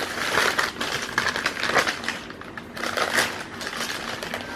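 Food packaging being handled and opened, crinkling and rustling in irregular bursts.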